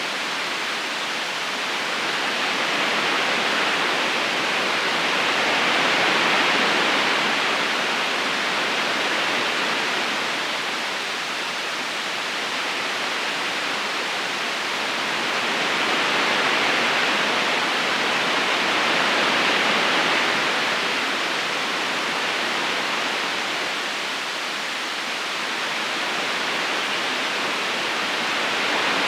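River current rushing steadily over stones, a continuous water hiss that swells and eases slowly every several seconds.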